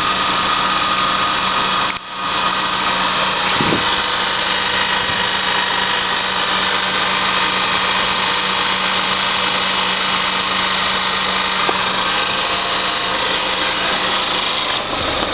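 1999 Honda Accord engine bay running with a loud, steady metallic clanging whir that began after a radiator replacement. It is worse with the A/C compressor engaged. A steady low hum drops out near the end.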